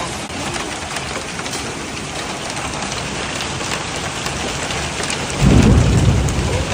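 Heavy hail pelting down, a steady hiss dotted with many small impacts. Near the end a sudden loud low rumble rises over it for about a second.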